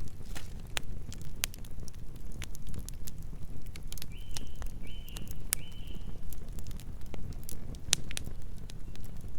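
Wood fire burning, with a low steady rumble of flames and frequent sharp crackles and pops of burning logs. Three short high chirps come in quick succession near the middle.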